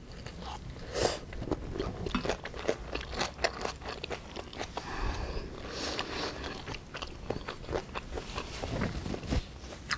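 A mouthful of bibimbap being chewed close to the microphone: many short, irregular crunches and wet mouth clicks, with a sharper click about a second in.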